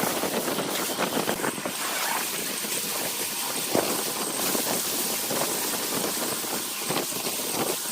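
Wood lathe running while a piece is worked on it: a steady machine noise with irregular scraping, clicks and rattles.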